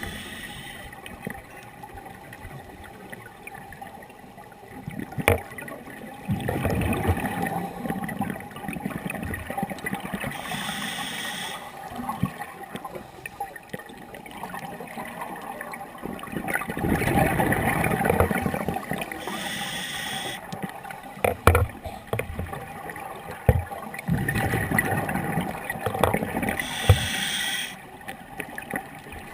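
Scuba diver breathing underwater through a regulator: three slow breath cycles, each a long bubbling rush of exhaled air followed by a short high hiss of the inhale. A few sharp clicks sound between the breaths.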